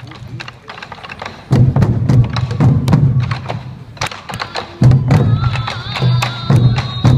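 Sansa odori festival music: large taiko drums beaten in heavy clustered patterns, with many sharp stick clicks between the beats. A wavering high tone, likely the bamboo fue flute, joins about five seconds in.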